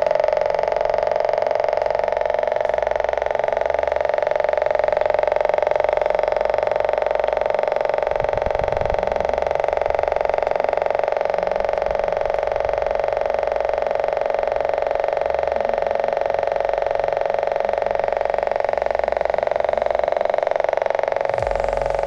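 A small motor running steadily with a fast, even buzz, driving a cardboard miniature diesel engine model.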